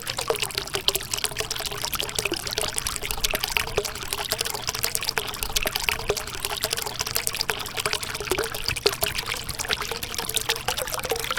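River water trickling and splashing steadily, a dense stream of small splashes.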